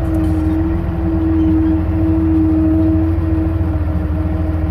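Case 5240 tractor's diesel engine running steadily, with a steady whine held over the engine note.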